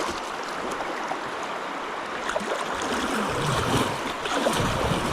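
Shallow river water rushing steadily through a riffle around kayaks, with irregular low rumbles joining in about three and a half seconds in.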